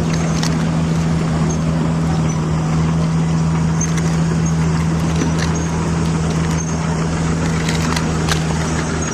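A small electric motor on a DIY miniature excavator hums steadily at one fixed pitch, with scattered small ticks and scraping. It cuts off suddenly at the end.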